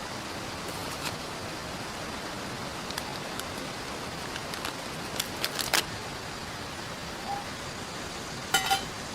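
Steady hiss of rain falling and river water flowing. Scattered sharp clicks sit on top of it, with a small cluster about five seconds in and a louder double click with a short metallic ring near the end.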